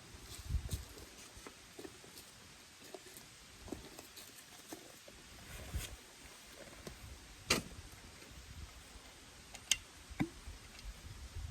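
Campfire crackling: scattered small snaps and pops of burning wood, with two sharper pops about seven and a half and nine and a half seconds in, over a faint steady hiss.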